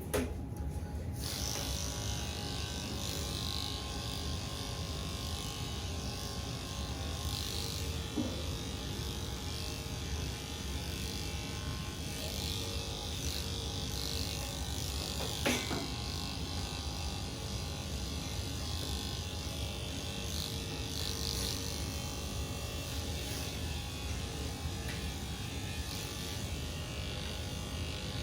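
Electric pet grooming clippers running steadily while trimming a long-haired cat's fur, with a couple of brief clicks.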